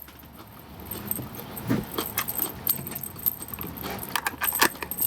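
Objects being handled: irregular clicks, clinks and rattles that grow busier after about two seconds, with a brief low vocal sound in between.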